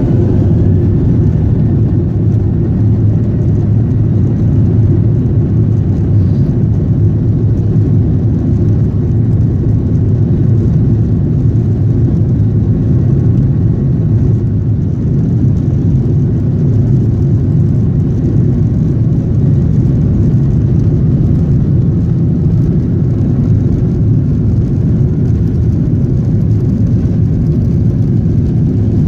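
Boeing 737-800 jet engine and airflow noise heard inside the passenger cabin: a steady low noise that holds level with no rise or fall.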